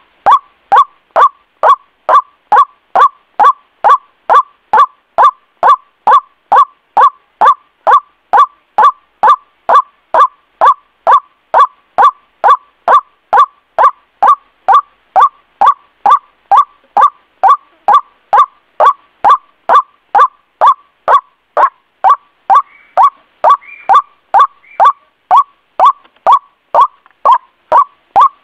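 White-breasted waterhen (ruak-ruak) call played as a bird lure: a short, loud note repeated steadily about twice a second.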